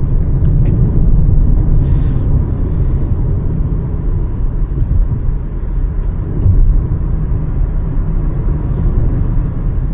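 Steady low rumble of a Hyundai Verna 1.5 turbo-petrol car on the move, engine and road noise together with no rise or fall in revs.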